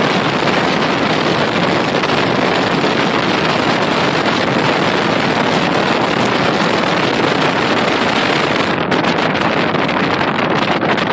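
Loud, steady rushing of wind and road noise in a moving vehicle, with wind buffeting the microphone. About nine seconds in, the highest hiss drops away and the noise becomes choppier and gusty.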